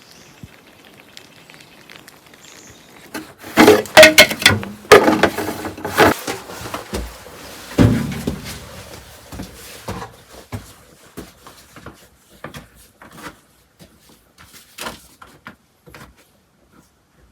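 A run of heavy knocks and scrapes from handling hard objects, loudest from about three to eight seconds in, then scattered lighter clicks that thin out toward the end.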